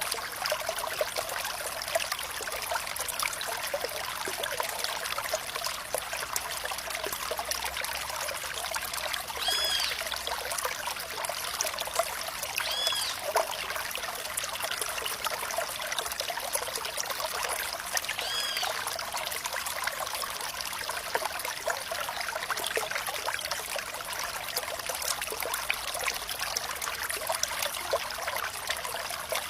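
Water in a small stream trickling steadily, with three brief high chirps in the middle.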